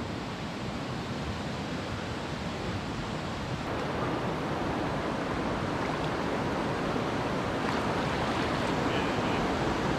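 River water rushing steadily, slowly growing a little louder.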